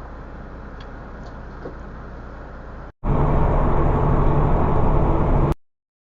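Steady vehicle engine and road noise while driving. About three seconds in it cuts to a much louder run of the same kind of noise with a steady low engine hum, which stops abruptly about two and a half seconds later and is followed by silence.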